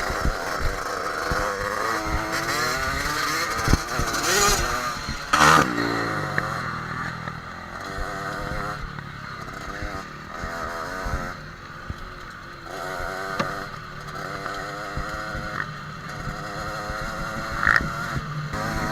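Yamaha dirt bike engine revving up and down as it rides a rough trail, with several sharp knocks and clatter.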